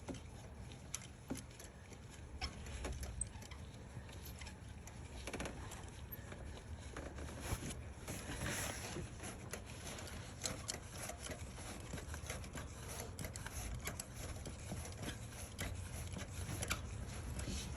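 Faint, irregular light clicks and scrapes of a spark-plug socket and extension being turned by hand, unscrewing a loosened spark plug from a V8 cylinder head.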